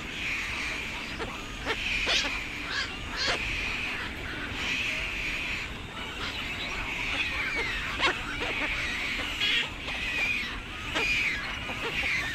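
Birds calling over and over, each wavering call about a second long, with sharp clicks scattered between them.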